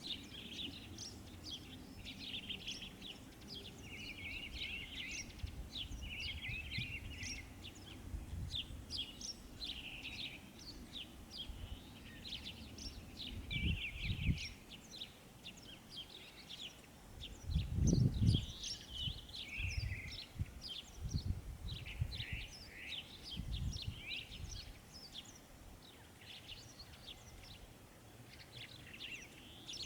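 Several small songbirds chirping and trilling over each other without a break. Irregular low rumbles come and go underneath, the loudest about two-thirds of the way through.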